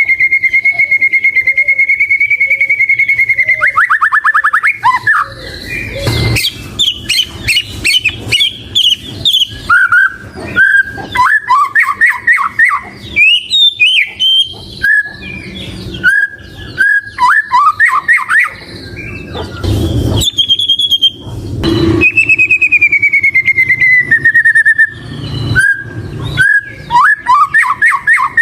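White-rumped shama singing: a long clear whistle that falls slightly in pitch, then rapid trills and a run of short, varied whistled phrases, with a second long falling whistle about two-thirds of the way through.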